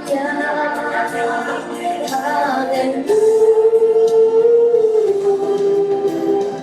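Music with singing voices, choir-like, holding one long note from about three seconds in until about five seconds in.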